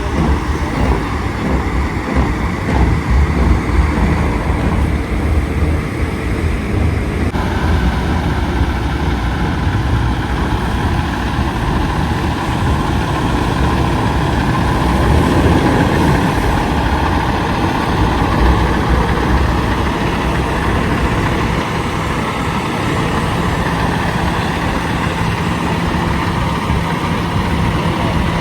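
Heavy diesel truck engines of big rigs running steadily, a continuous low engine drone.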